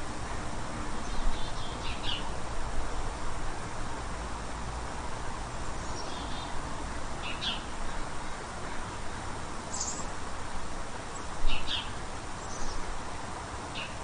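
Short, high bird chirps, one every second or two, over a steady background hiss.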